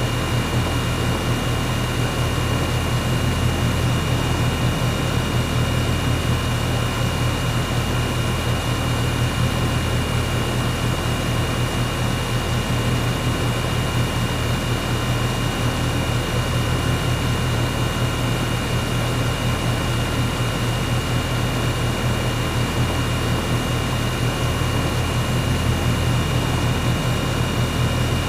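Air conditioner running steadily: an even low hum with fan whir and a faint steady high whine over it.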